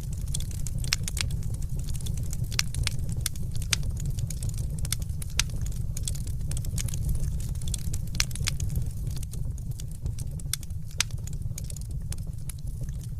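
Fireplace fire crackling: frequent sharp, irregular crackles and pops over a steady low rumble.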